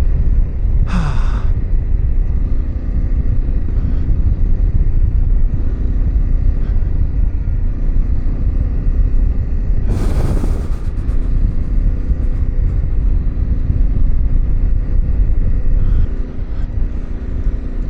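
Yamaha Ténéré 700's parallel-twin engine running under a heavy low rumble as the bike rides a dirt trail, with two brief noisy bursts, about a second in and about ten seconds in.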